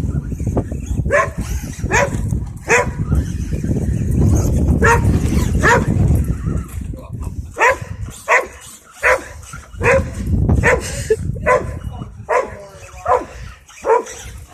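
A dog barking repeatedly, roughly one bark every second or less, over a heavy low rumble that fades out about seven seconds in.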